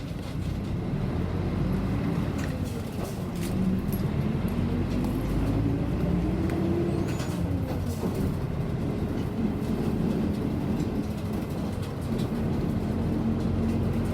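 City bus engine and road noise heard from inside the passenger cabin as the bus drives between stops. The engine pitch rises and falls a few times as the bus speeds up and slows, with light rattles and clicks throughout.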